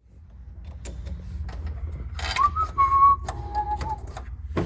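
A person whistling a few short notes over a low rumble, with scattered clicks and a sharp knock near the end.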